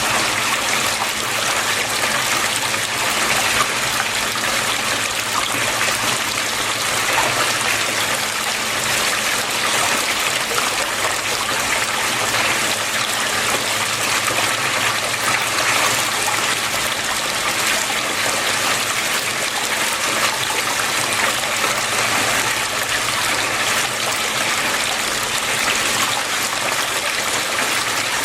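Flowing water running steadily, an even rushing and trickling with no breaks.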